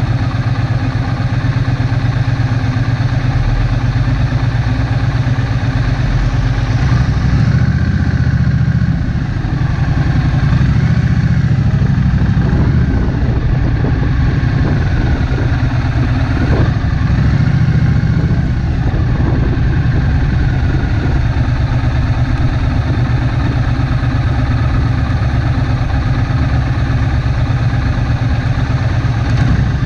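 Triumph Bonneville Street Twin's 900cc parallel-twin engine running in slow town traffic, ticking over at first and picking up a little from about seven seconds in as the bike creeps forward.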